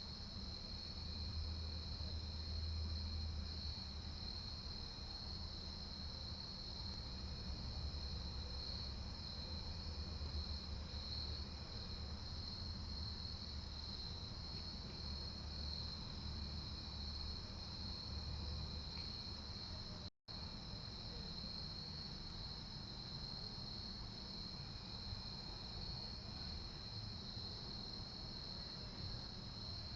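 Crickets chirping in a steady high-pitched chorus, with a faint low rumble under it. The sound drops out for a moment about two-thirds of the way through.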